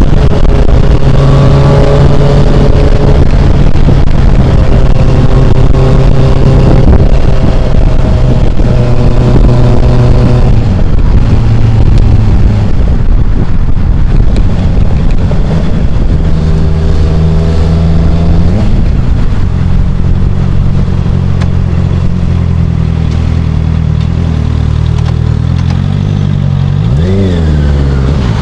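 Motorcycle engine running at highway speed, picked up loud and rough by an Akaso Brave 7 LE action camera's built-in microphone. The engine pitch shifts now and then, with a quick dip and rise near the end.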